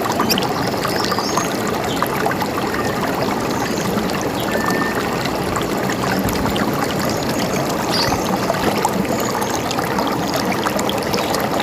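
River water running steadily, with a few faint bird chirps.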